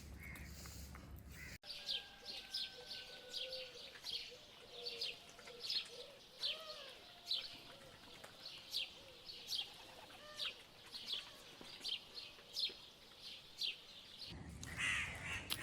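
Small birds calling: a repeated short, high, falling chirp one or two times a second, with softer lower warbling calls beneath.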